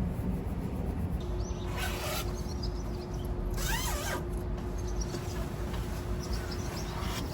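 Outdoor ambience: a steady low rumble of distant traffic, with two short chirps, about two and four seconds in, and a faint steady hum.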